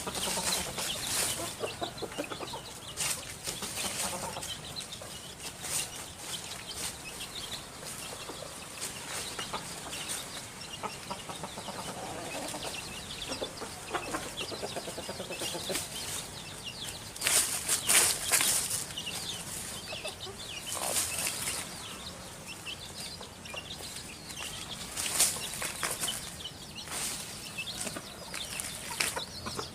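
Chickens clucking, with several short, loud bursts of noise; the loudest comes about eighteen seconds in.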